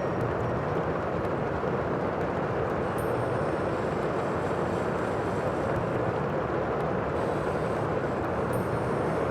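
Sea surf: a steady, continuous wash of waves with no distinct breaks standing out.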